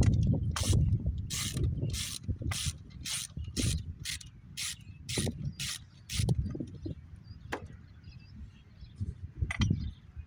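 Socket ratchet wrench clicking in about a dozen even back-and-forth strokes, roughly two a second, while an engine bolt is turned out. The ratcheting stops about six seconds in, and a couple of single clicks follow.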